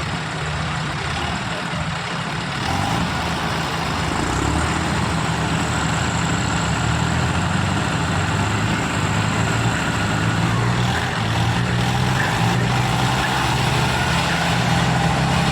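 Diesel tractor engines running hard, the sound growing louder about three seconds in and holding there, typical of tractors pulling against each other in a tug-of-war.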